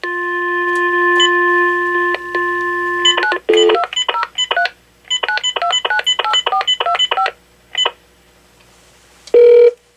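Dial tone on the AT&T 7720 cordless phone's speakerphone for about three seconds, then a number dialled as a quick run of touch-tone (DTMF) key beeps. A brief, louder single tone follows near the end.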